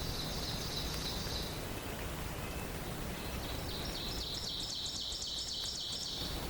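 A songbird singing a rapid trill of evenly repeated high notes, twice: a short trill at the start and a longer one from about three seconds in, over a steady background hiss of forest ambience.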